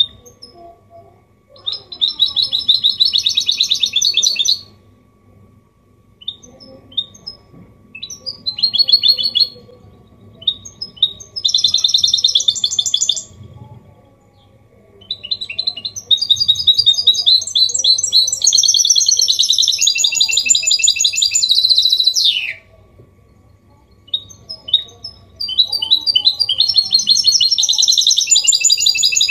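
A goldfinch hybrid (mule) sings clear, rapid, twittering phrases, five of them with short pauses in between. The longest phrase runs about six seconds in the middle and ends on a quick falling note.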